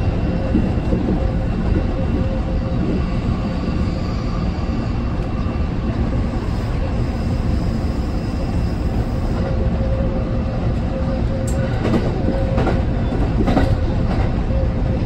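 Kintetsu electric train running, heard from behind the driver's cab: a steady rumble of wheels on rail with a faint steady whine, and a few sharp clicks near the end as the wheels cross rail joints.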